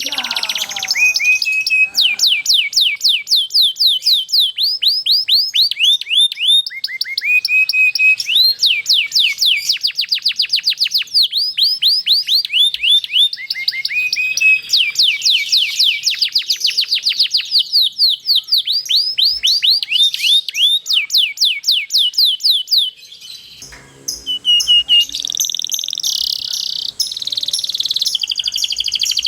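Canary singing a long rolling song: long trills of quick, falling whistled notes, repeated many times a second, broken by a short pause near the end before the song picks up again.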